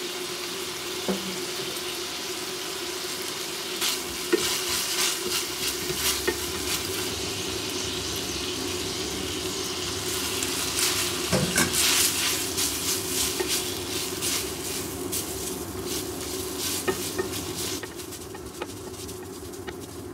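Bacon and broccoli sizzling in oil in a frying pan, stirred with tongs that click and scrape against the pan, over a steady low hum. About eleven seconds in the sizzle swells as drained spaghetti is tipped into the pan and tossed.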